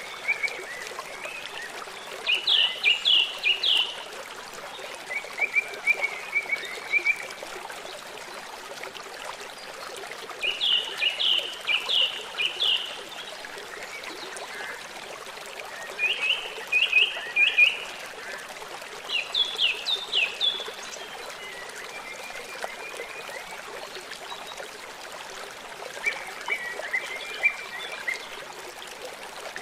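Songbird singing short phrases of quick, falling notes, one phrase every few seconds, over a steady trickle of running water.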